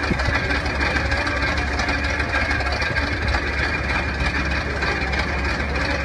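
Machinery running steadily, with a low engine-like drone under a broad mechanical rumble.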